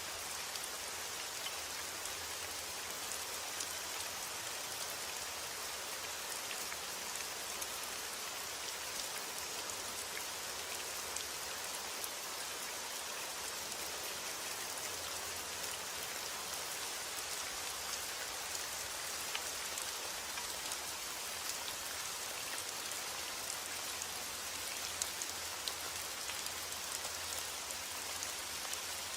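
Steady rain falling, a continuous hiss with many small drops pattering on a surface.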